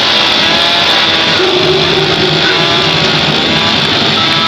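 Two-stroke chainsaw engine running steadily at high speed, a loud buzzing motor with a hiss above it.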